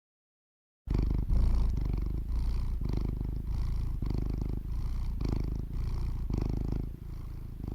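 Domestic cat purring close to the microphone, starting suddenly about a second in and swelling and easing about once a second with each breath.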